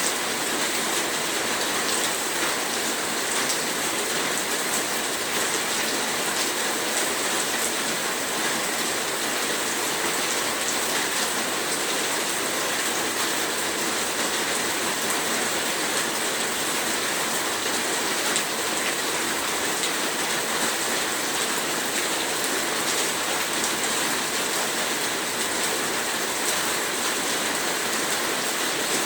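Heavy rain falling steadily, a dense even hiss of drops with fine scattered ticks of individual raindrops.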